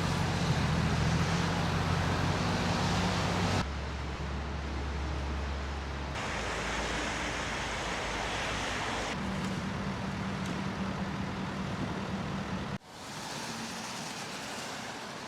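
Street sound from several short clips cut together, changing abruptly every few seconds: a vehicle engine running with a steady low hum, then other traffic and street noise.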